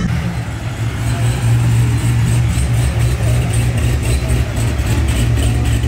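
A car engine and exhaust running at low revs with a steady deep note as the car rolls slowly past.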